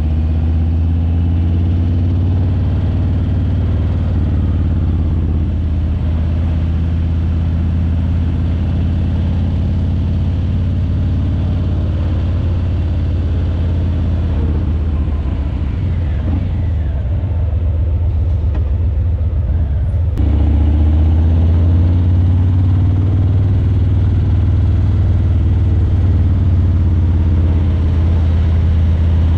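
Harley-Davidson Breakout 117's Milwaukee-Eight 117 V-twin, breathing through Vance & Hines Eliminator 300 slip-on mufflers, running steadily at low revs with a deep, loud exhaust note. It gets a little louder about two-thirds of the way through.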